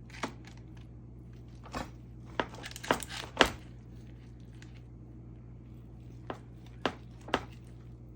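Kitchen knife chopping food on a cutting board: about eight sharp, uneven knocks, a quick run in the first few seconds and three more near the end.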